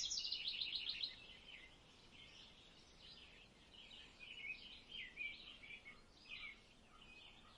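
Small birds chirping: a rapid run of high chirps in the first second, then faint scattered chirps.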